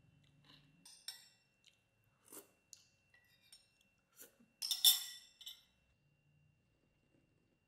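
Someone eating: a scatter of short crunching and chewing sounds, with the loudest crunch about five seconds in.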